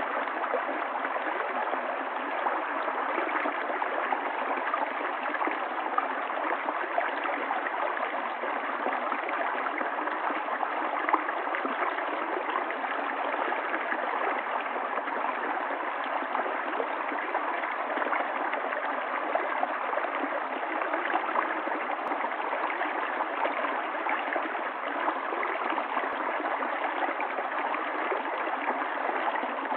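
Stream of running water, a steady even rush with gurgling and splashing.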